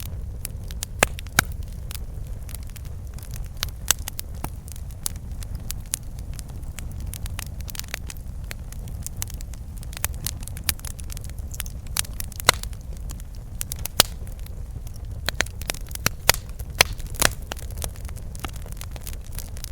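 Campfire crackling, with irregular sharp pops and snaps of burning wood, a few of them louder than the rest, over a steady low rumble.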